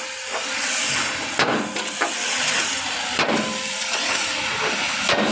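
Hammer striking rivets on metal truck bodywork three times, about two seconds apart, over a steady loud hiss.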